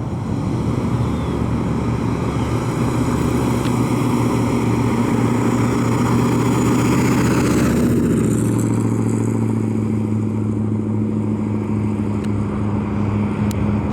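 Ford 428 cubic-inch V8 of a 1966 Thunderbird running as the car drives. It grows louder to a peak a little over halfway through, then falls back to a steadier engine note.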